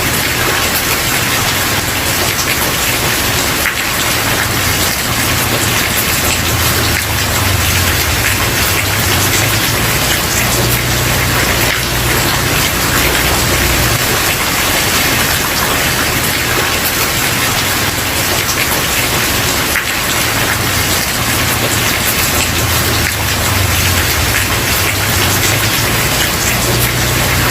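Steady rain pattering on a wooden porch, a dense even hiss of drops with fine individual ticks. A low rumble comes and goes underneath.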